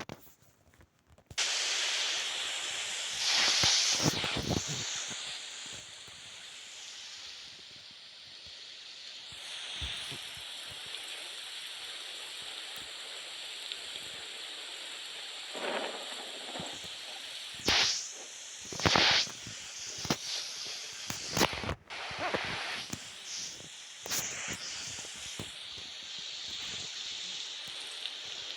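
Mountain bike riding on a trail: a steady rush of wind and tyre noise, broken by several sudden rattles and knocks as the bike goes over bumps.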